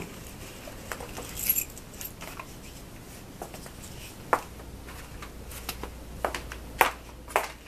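Scattered light clicks and small knocks from objects being handled, with a brief high metallic jingle about a second and a half in.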